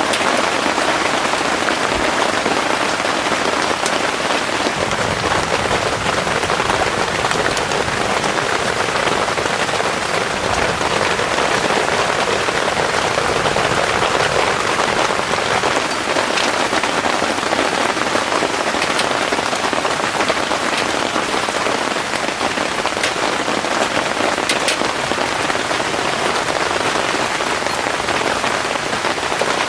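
Heavy rain falling steadily: a dense, even hiss with scattered drop clicks through it.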